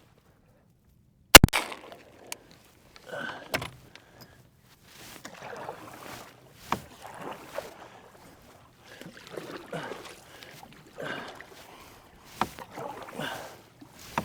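Swishing and splashing of someone moving through shallow marsh water in irregular strokes about a second apart, chasing a crippled duck. A single sharp knock comes about a second and a half in.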